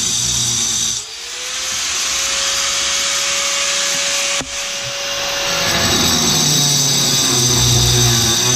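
Power saw cutting through a ceramic tile wall, running steadily with a high whine. The sound dips about a second in and cuts out briefly near the middle before the cut goes on.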